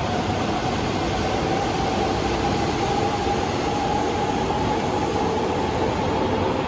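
E4 series Max double-deck Shinkansen train running at the platform, a steady rumble with a motor whine that rises slowly in pitch as it gathers speed.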